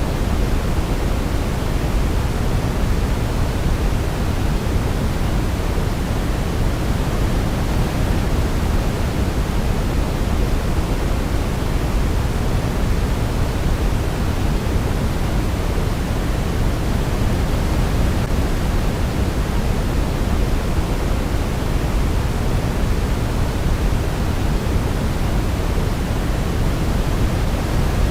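Steady synthetic sleep noise, an even deep hiss weighted toward the low end, unchanging throughout.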